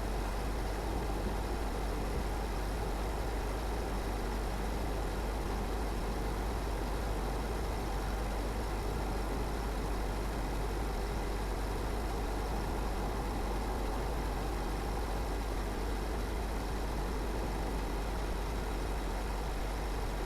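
Car driving at a steady speed: a constant low rumble of engine and tyre-on-road noise that does not rise or fall.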